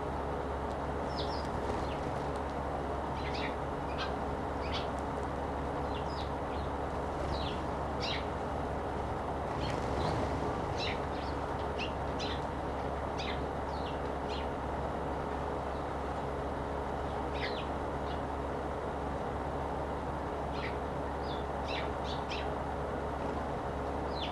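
Eurasian tree sparrows chirping: many short, scattered high chirps over a steady background hiss and hum.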